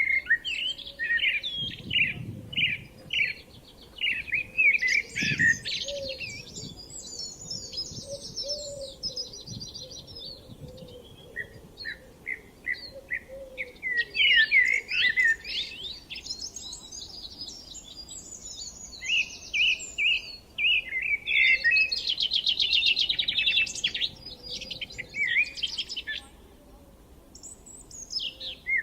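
Songbirds singing: phrase after phrase of quick chirps and fast trills, with short pauses between phrases.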